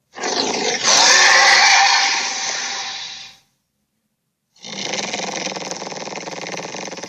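Two giant-ape roar sound effects. The first swells to its loudest about a second in and fades away over the next two seconds. After a second of silence, a second, steadier growl with a fast pulsing texture starts and carries on to the end.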